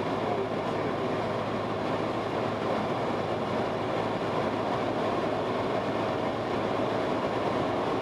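Cessna 172S's four-cylinder Lycoming engine and propeller droning steadily at reduced power, about 1500 rpm, in a power-off descent to land.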